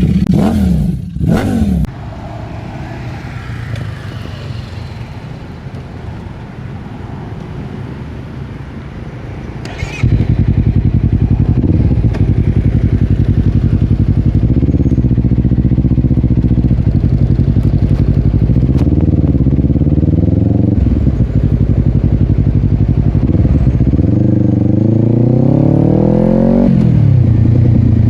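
Honda CBR250RR parallel-twin engine through a Yoshimura exhaust, running quietly at first, then suddenly much louder about ten seconds in, its revs rising and falling several times. Near the end the revs climb for a few seconds and drop sharply.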